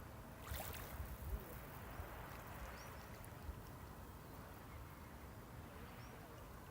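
Small sea waves washing on the shore, a steady faint rush with a brief brighter swish about half a second in, over a low rumble. A few faint high chirps sound now and then.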